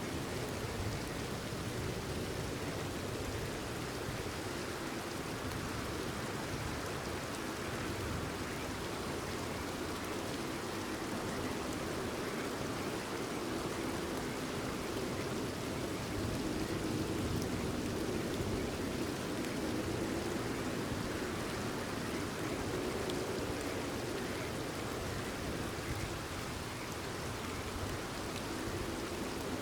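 Steady, continuous rainfall, an even hiss of many drops falling on surfaces, without a break or change in level.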